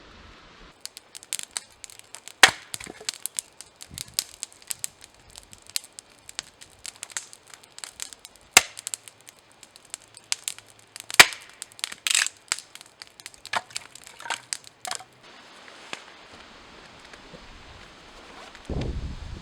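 Dry wood snapping and cracking: a rapid, irregular run of sharp cracks, a few much louder than the rest, that stops suddenly about fifteen seconds in. A low rustling thump comes near the end.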